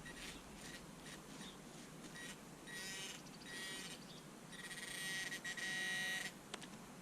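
Metal detector beeping at a buried target: short high-pitched beeps, then longer ones, then a near-continuous buzz for about a second and a half before it stops.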